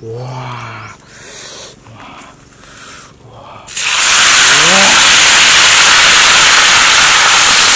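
Red ant eggs hitting a hot pan and sizzling. The loud, steady sizzle starts suddenly about halfway through.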